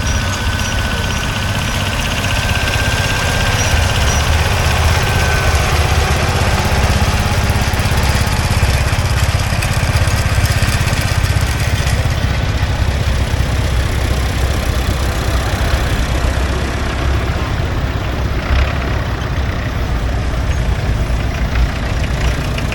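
Vintage farm tractor engines running steadily, the sound mostly low-pitched.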